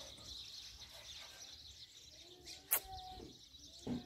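Faint chirping of small birds, with one sharp click about two-thirds of the way in and a short low knock near the end.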